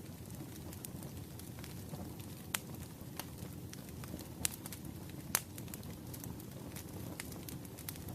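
Wood fire burning: a steady low rumble of flames with constant small crackles and a few sharp pops from the burning logs, the loudest about five seconds in.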